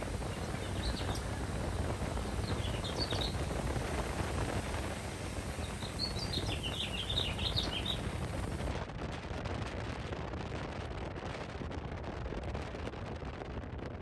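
Small birds chirping: a few chirps about a second in, more around three seconds, and a longer flurry of quick chirps around six to eight seconds, over a steady low rumble.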